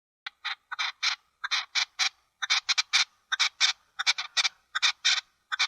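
Red-legged partridge calling: a rhythmic run of short, scratchy chuffing notes, a few a second, falling into small groups.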